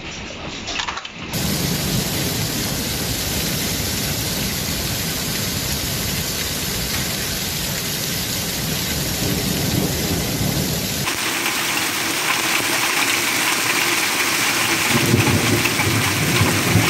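Heavy storm downpour of rain and hail beating down in a dense, steady hiss, with a deeper rumble underneath that is strongest near the end. The sound changes abruptly about a second in and again about eleven seconds in.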